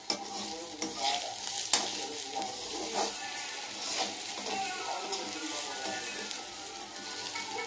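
Potato sticks sizzling as they fry in oil in a steel kadai, while a flat metal spatula stirs them, scraping and knocking against the pan several times.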